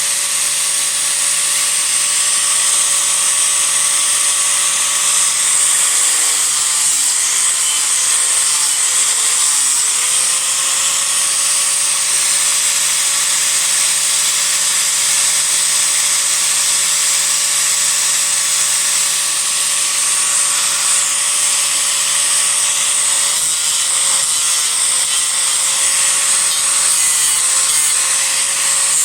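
Angle grinder (disc grinder) running steadily while rough-carving a block of cedar, a high whine over a hiss of disc on wood. Its pitch drops twice for a few seconds, about six seconds in and again past twenty, as the disc is loaded into the wood.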